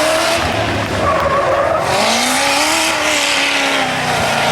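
Tuff truck's engine revving hard, its pitch climbing and falling back in long swells as the throttle is worked through the corners, under a loud rushing hiss that swells mid-way.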